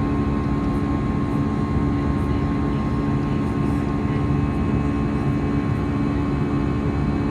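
Steady drone of an Airbus A320's jet engines and rushing air heard from inside the passenger cabin, with a few steady hum tones and no change in level.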